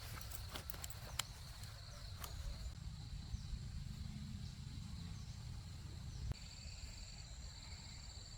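Faint rural outdoor ambience: insects hold a steady high drone over a low rumble, with a few light clicks. About six seconds in, a pulsing insect trill joins.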